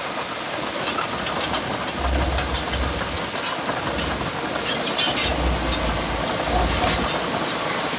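Crawler bulldozer at work: its diesel engine runs steadily while the steel tracks clank and rattle in many quick knocks.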